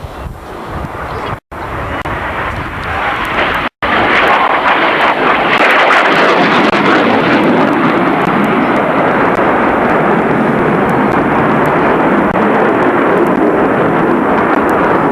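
Airshow aircraft engine noise, a loud rushing roar that builds over the first few seconds and then holds loud. The sound cuts out completely twice, briefly, in the first four seconds.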